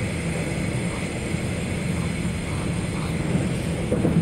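Steady low rumble of an electric commuter train running, heard from inside the passenger carriage.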